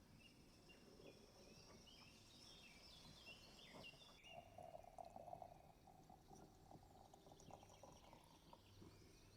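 Faint outdoor ambience with a small songbird singing quick runs of chirping notes in the first half. A low steady hum follows for a few seconds midway, with a few faint clicks.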